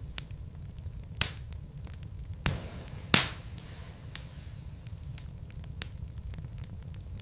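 Wood logs burning in a fireplace: steady low rumble of the fire with frequent small crackles and a few louder pops, the loudest about three seconds in.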